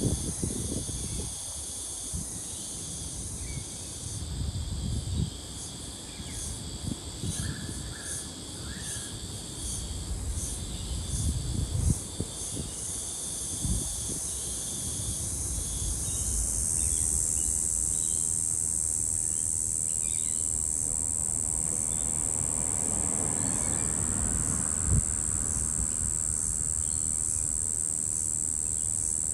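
Cicada, which the uploader takes for a Brown Bunyip (Tamasa tristigma), giving a coarse, monotonous high buzz. It pulses about twice a second early on, then settles into a loud, steady drone about halfway through.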